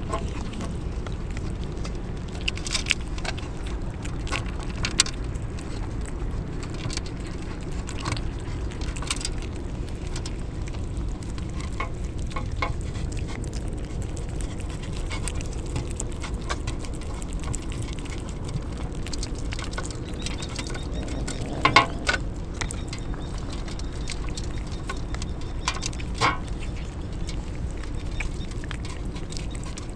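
Steady rain patter, with scattered short clicks and taps through it; the sharpest come about 22 and 26 seconds in.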